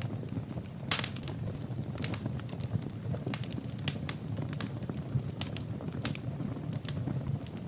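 Wood fire burning in a fireplace: irregular sharp crackles and pops, the loudest about a second in, over a steady low rumble of the flames.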